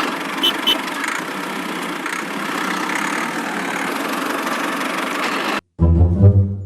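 Miniature tractor's small motor running steadily, with two short clicks about half a second in. It cuts off suddenly, and music starts for the last second.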